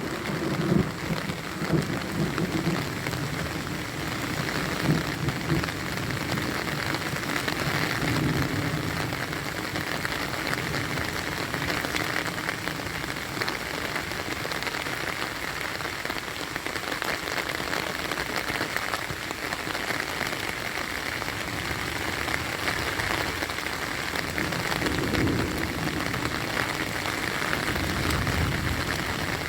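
Heavy rain pouring steadily, a dense hiss of drops, with low rumbles in the first few seconds and again near the end.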